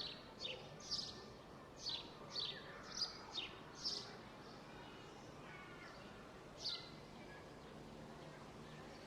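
A songbird calling with short, high, down-slurred chirps, about two a second for the first four seconds, then one more a few seconds later, over a steady background hum of outdoor noise.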